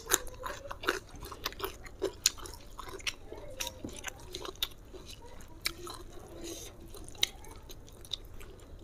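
Close-up chewing of raw mature jengkol beans: many small, crisp crunches and wet mouth clicks, irregularly spaced.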